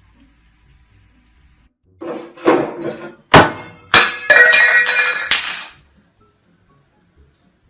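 A clatter of hard objects falling: a rattle, two sharp crashes about two-thirds of a second apart, then a ringing, clinking clatter that dies out after about two seconds.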